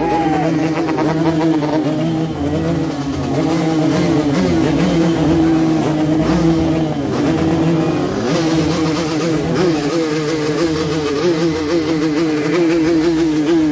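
Several motorcycle engines revving together without pause, their pitch wavering up and down as throttles are blipped, most rapidly near the end.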